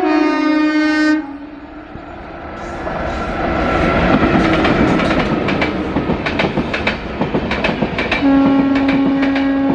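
Locomotive horn sounding, which cuts off about a second in. A train then comes closer, its rumble and rapid clickety-clack of wheels over rail joints growing louder, and the horn sounds again near the end in one steady blast.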